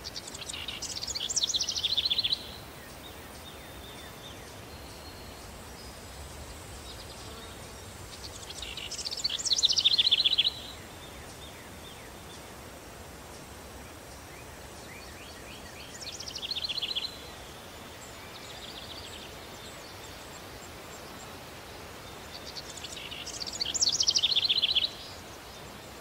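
A songbird singing the same fast, trilled phrase four times, several seconds apart; each phrase grows louder and stops abruptly, the third one shorter and quieter. A steady hiss runs underneath.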